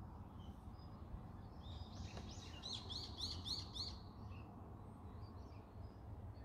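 A small bird singing a quick run of about six high chirps, each bending down in pitch, for about two seconds starting near the second second, over a steady low outdoor rumble.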